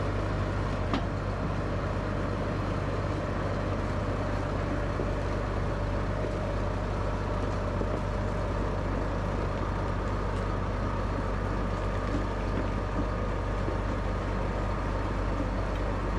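A large vehicle engine running steadily at one constant speed, a low even hum with no change in pitch, and a single faint click about a second in.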